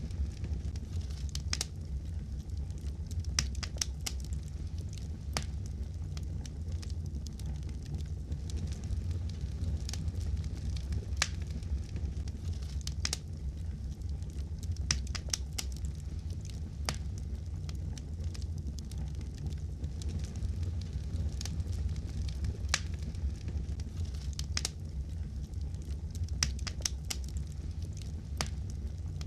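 Wood fire crackling in a fireplace: irregular sharp pops and snaps, a few a second at most, over a steady low rumble of the flames.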